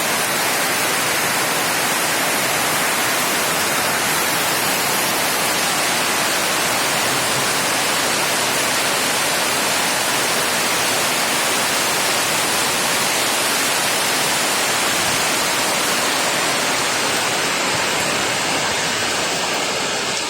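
Heavy tropical downpour driven by strong wind: a loud, steady, dense hiss of rain.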